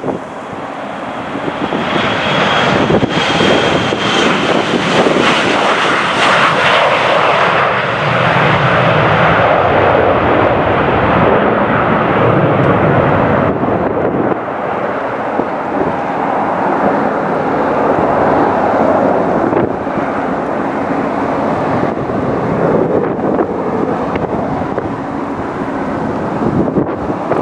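Passing airliner's engines running loud: the sound builds over the first couple of seconds and stays loud, with a thin high whine a couple of seconds in that dips slightly.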